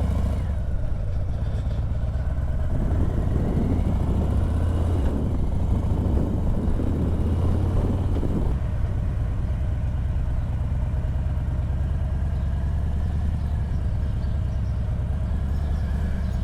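Harley-Davidson Heritage motorcycle's V-twin engine running steadily at low speed, with a swell of louder noise between about three and eight seconds in.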